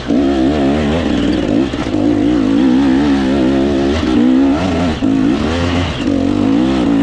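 Dirt bike engine running under load, its pitch rising and falling with the throttle, with a few brief dips where the throttle is eased off.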